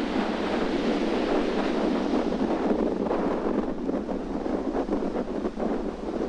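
Strong wind buffeting the microphone, mixed with ocean waves breaking. The rushing eases slightly about halfway through.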